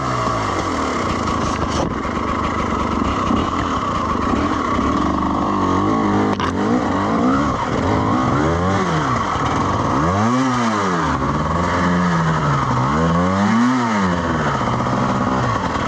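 Dirt bike engine running hard. In the second half it revs up and down again and again in swells, as the rider works the throttle trying to climb a slippery muddy hill.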